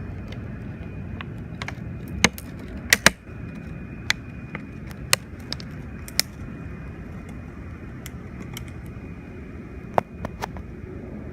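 Steady low rumble with a faint steady high tone, broken by about a dozen irregular sharp taps and clicks. The loudest come about two and three seconds in, and another near the end.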